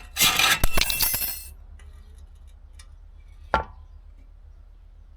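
Loud metallic clattering and scraping of exhaust parts with clinks, lasting a little over a second, then one sharp metal knock a couple of seconds later.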